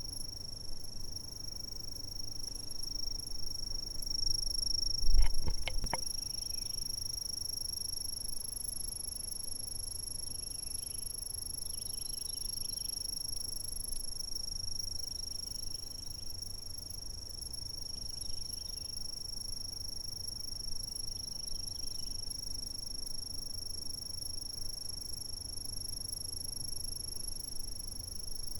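Insects, typical of crickets, keep up a steady, high-pitched trill, with a low rumble beneath. About five seconds in there is a single loud thump with a few clicks. Faint short chirps come and go a little lower in pitch.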